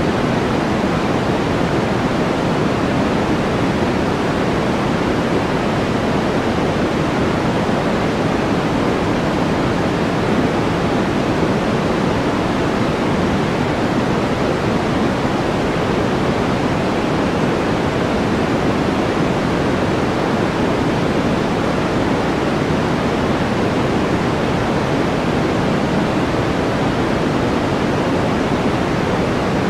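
Steady white-noise background track: an even, unchanging hiss, heavier in the low end.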